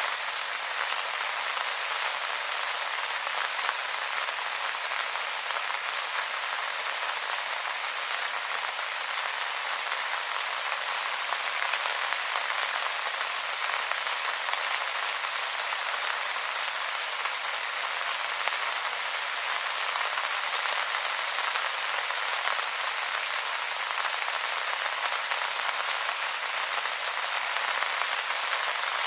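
Steady rain falling on wet leaves, a dense, even patter with no single drops standing out and no change in strength.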